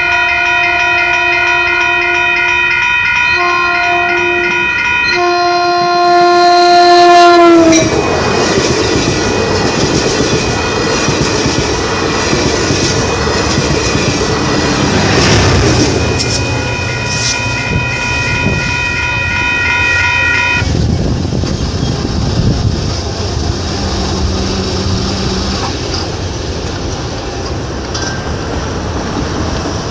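Train horn sounding in blasts as the train approaches, the last long blast dropping in pitch as the locomotive passes over, then the train's wheels running directly over the microphone on the rails: a loud, dense rumble with rhythmic clickety-clack.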